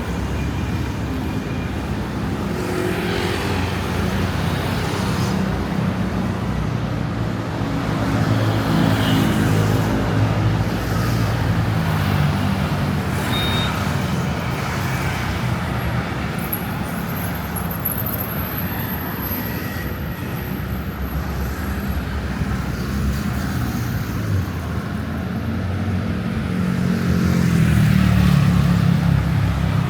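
Street traffic: motor vehicle engines running and passing, getting louder about a third of the way in and again near the end.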